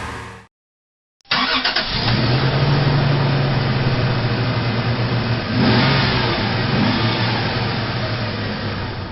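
A car engine cuts off, and after a second of silence another car engine starts up and runs with a steady low note. About halfway through it revs up, then it fades away.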